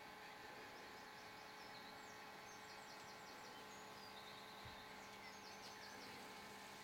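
Near silence with faint birdsong: short, high chirping trills in several quick phrases through the middle, over a faint steady hum.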